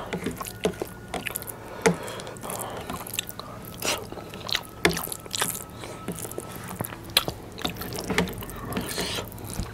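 Close-miked wet chewing and lip smacks of a mouthful of biryani, with fingers squishing and mixing rice and curry on the plate. Irregular sharp smacks and clicks run through it.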